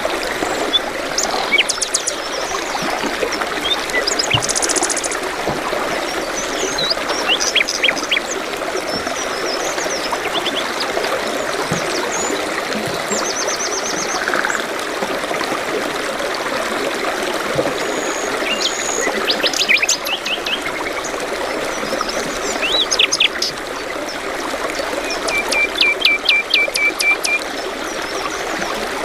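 Several birds chirping and trilling in short, scattered calls over the steady rush of flowing water, such as a stream.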